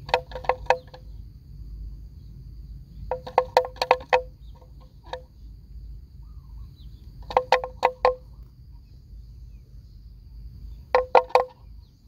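A bird calling in quick runs of four or five short, sharp notes, repeated four times, over a faint steady high insect drone.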